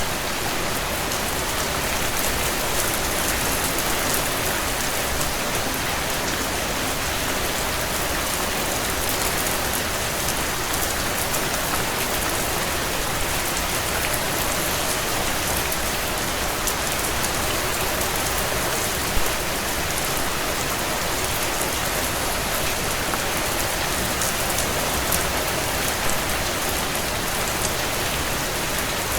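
Steady heavy rain on window panes, with scattered faint crackles from a wood fire and one louder pop about two-thirds of the way through.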